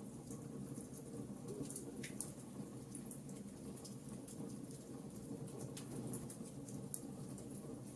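Wood fire in a fireplace crackling: irregular small pops and snaps, a few sharper ones, over a steady low rush of the burning.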